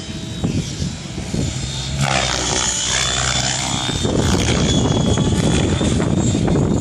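Radio-controlled helicopter flying: a steady high whine over the rush of the spinning rotor blades, growing louder about two seconds in and again about four seconds in.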